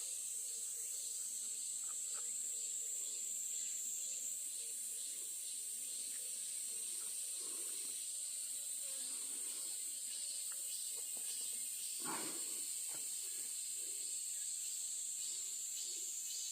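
A steady, high-pitched insect chorus, with a brief thump about twelve seconds in.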